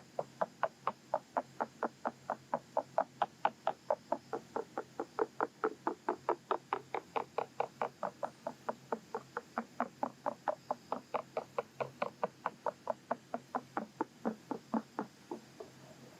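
A long fluffy-tipped ear pick stroked into an ASMR microphone's ear, making short scratchy rustles in a steady rhythm of about four a second. The strokes thin out and stop about a second before the end.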